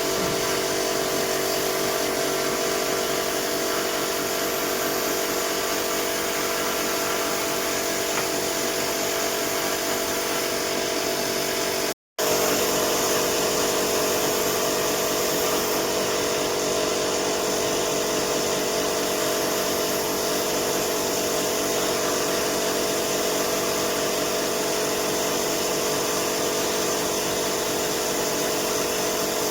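A power tool's electric motor running steadily at constant speed, with a steady hum of several fixed tones and a hiss above. It breaks off for an instant about twelve seconds in, then carries on unchanged.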